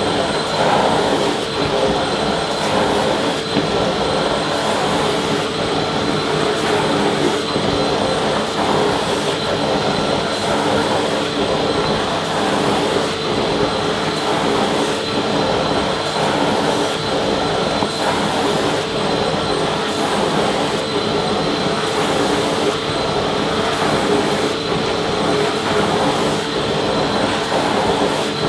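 Vacuum cleaner running steadily: a constant rush of air with a steady motor whine, unchanging throughout.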